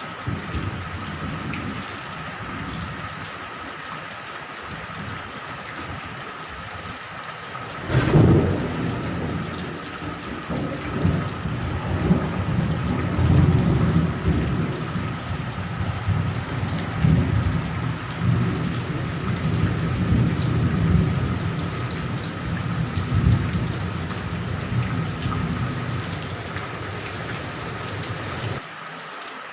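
Steady rain with a sudden sharp thunderclap about eight seconds in, followed by long low thunder rumbling that swells and fades over most of the rest.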